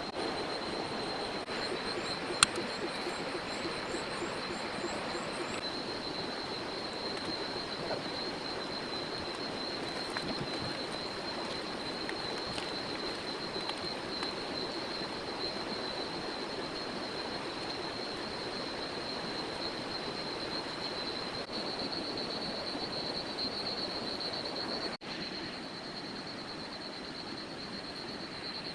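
Heavy rain falling steadily, with a continuous high-pitched insect drone over it. A single sharp click about two seconds in.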